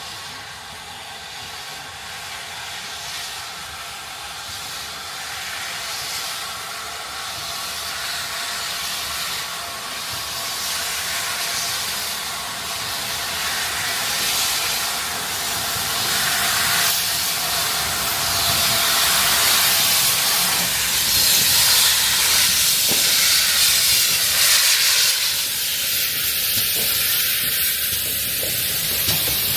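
Steam locomotive hissing steam, a steady loud hiss that grows gradually louder.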